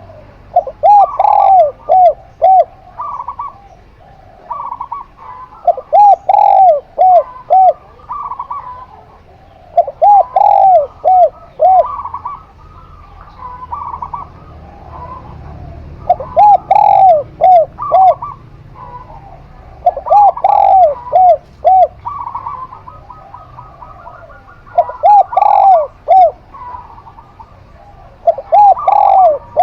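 A zebra dove and a spotted dove cooing. A phrase of four or five quick, rounded coos repeats about every four to five seconds, with softer, higher coos in between.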